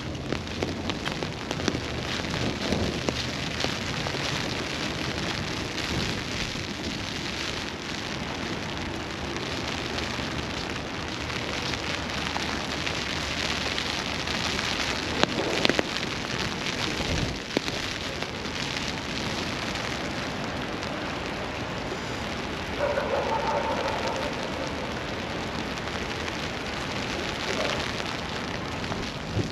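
Steady rain falling, with a few sharp taps. About 23 seconds in there is a short pitched sound lasting a couple of seconds.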